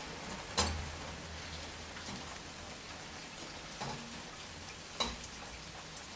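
Steady rain falling, with a few sharp taps of heavy drops, the loudest about half a second in and another about five seconds in.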